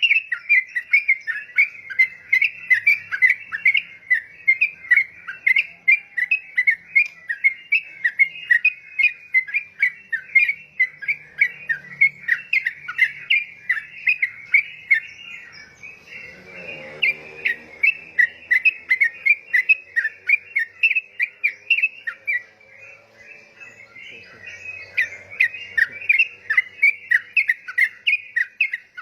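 Yellow-vented bulbul singing a long, busy run of rapid chirping notes, with a short pause about three-quarters of the way through.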